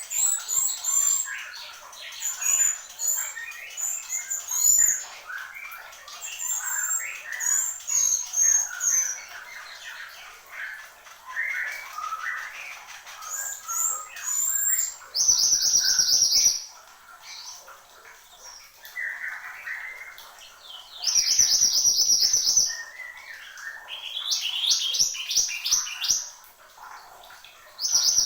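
A mantenan gunung songbird singing hard: a busy, varied stream of quick chirps and whistles, broken twice by loud, harsh, high buzzing trills and later by a rapid run of rising rattled notes.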